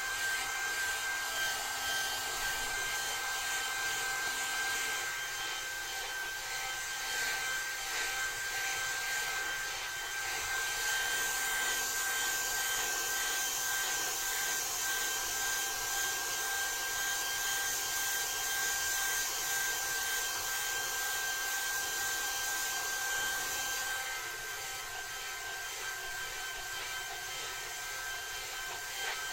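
Hair dryer blowing: a steady rush of air with a thin, high fan whine. The airflow sound changes about ten seconds in and gets a little quieter in the last few seconds.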